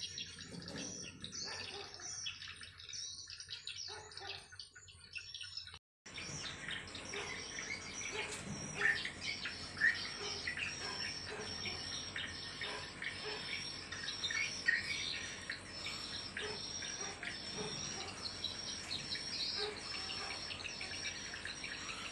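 Swiftlets chirping and twittering densely, a swiftlet call recording of the kind played to draw swiftlets to a nest house. The sound drops out abruptly for a moment about six seconds in, then resumes with busier chirping.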